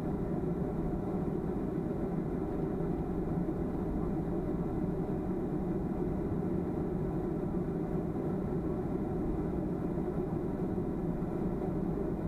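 Steady engine and airflow noise heard inside the passenger cabin of a Boeing 737-300, an even low rumble with no change in level.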